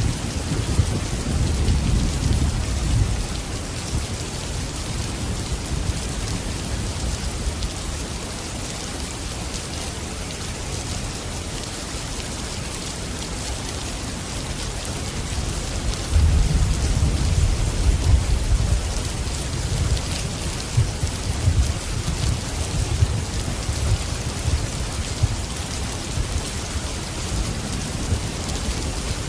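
Steady heavy rain falling, with low rolling thunder rumbling twice: once in the first few seconds and again, longer, about halfway through.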